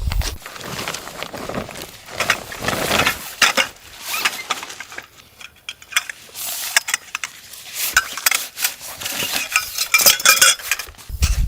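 Irregular clinking and clattering of metal objects being handled, with a brief ringing clink near the end.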